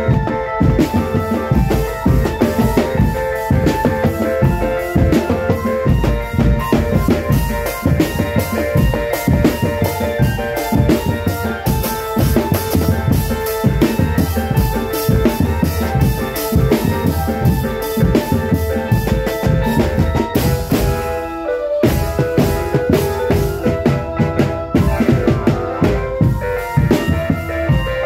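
Marching drum band playing: fast, dense bass-drum and snare beats under a steady melodic line.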